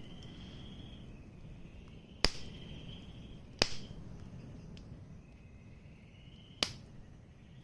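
Burning wood in a bonfire popping sharply three times, over a low steady crackle of the fire. Insects trill steadily in the background.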